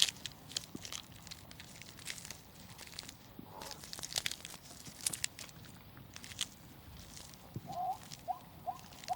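A pig chewing and rooting, with scattered crunches and clicks, then a handful of short rising grunts near the end.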